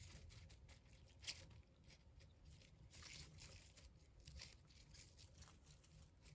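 Faint, scattered rustling and soft crackling taps at irregular moments, with a slightly louder crackle about a second in and a cluster around the middle.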